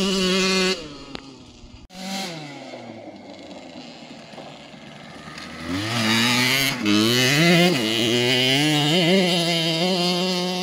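Small kids' dirt bike engine being ridden. It runs loud at first, drops away a little before two seconds in and winds down quieter with falling pitch. From about six seconds it revs up loudly, the pitch rising and falling again and again.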